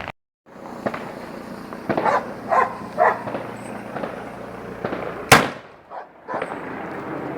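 Fireworks going off: scattered pops and crackles, then one sharp, loud bang about five seconds in.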